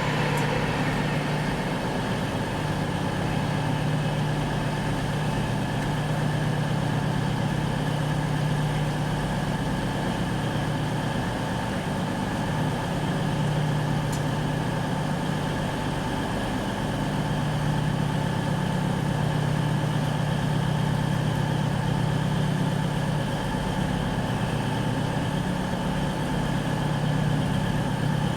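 Diesel railway engine idling with a steady low hum.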